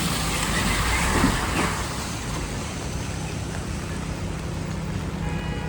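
City traffic on a rain-wet avenue: a steady rumble with tyre hiss, swelling as a vehicle passes about a second in.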